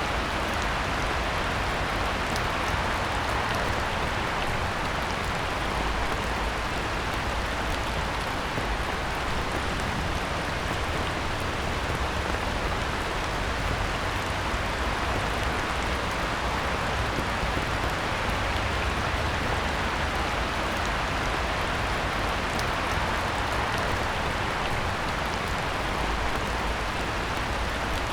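Heavy rain falling steadily on a pond: a dense, even hiss of countless drops hitting the water, with no let-up.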